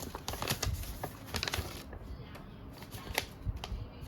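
Irregular clicks and light knocks of a mobile phone being handled and turned over in the hands.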